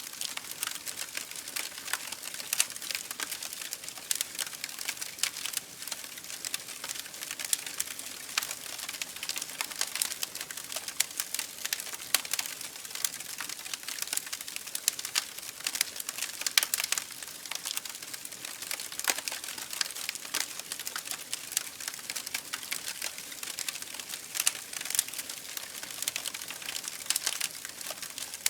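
Campfire burning wood, crackling with dense, irregular small pops and occasional louder snaps over a steady hiss.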